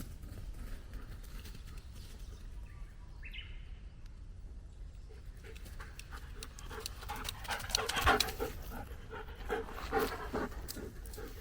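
German Shepherd dog panting in quick, even breaths, setting in about halfway through and getting louder.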